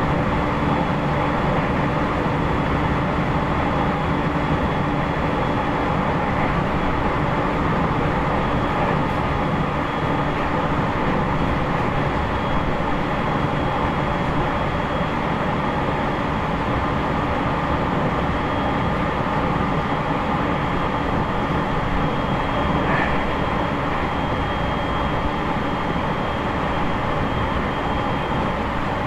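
Running noise inside the motor car of an E501 series electric train with Toshiba IGBT inverters: a steady rumble of wheels on rail with a thin high steady tone over it. Some air-conditioning noise is mixed in.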